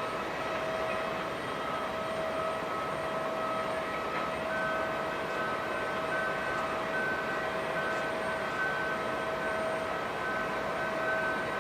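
Jet airliner engines running steadily, a whine of several held tones over a broad rush; a second, higher whine tone joins about four seconds in.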